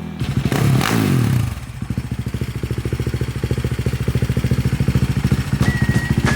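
Engine revved briefly, its note falling back within the first second and a half, then settling into an even, lumpy idle of about a dozen beats a second.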